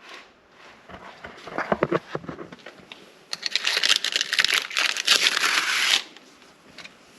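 A few knocks and bumps, then about three seconds of dense crackling and crunching rustle, as of debris or paper being moved and crushed.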